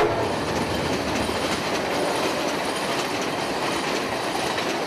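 Amtrak passenger train passing close by, a steady rush and rattle of wheels on the rails, with a faint high-pitched ring over it.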